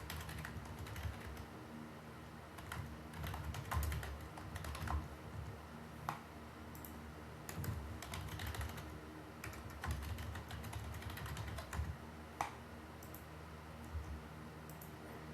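Typing on a computer keyboard in irregular spurts and pauses, with a few louder key strikes, over a faint steady hum.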